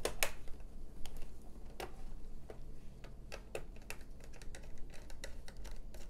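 Light, irregular plastic clicks and taps as a laptop's RAM compartment cover is seated and screwed down with a precision screwdriver.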